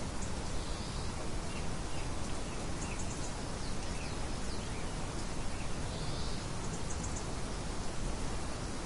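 Steady hiss of a light wind, with faint, brief bird chirps scattered through.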